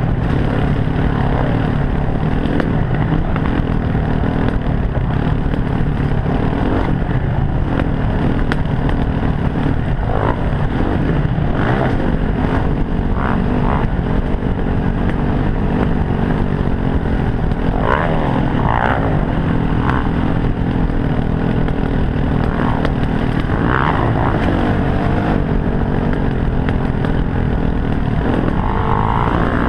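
Dirt bike engine running under load on a trail, the throttle rolling on and off so the revs rise and fall several times.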